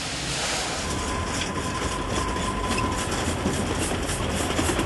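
Narrow-gauge steam locomotive running with a steady low rumble and exhaust beats, about four a second.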